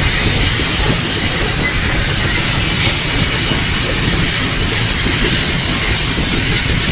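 Heisler geared steam locomotive under way, heard from inside its cab: a steady, loud rumble with a constant hiss over it.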